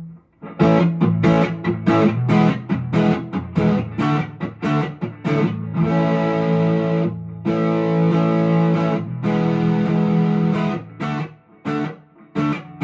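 PRS SE McCarty 594 electric guitar on its neck humbucker, played through a Vox AC10 amp: a quick run of picked notes, then chords let ring for a second or more, with a few more picked notes near the end.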